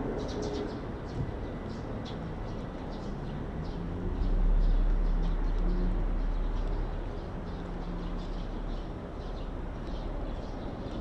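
Small birds chirping over a steady low rumble of city traffic; the rumble swells about four seconds in.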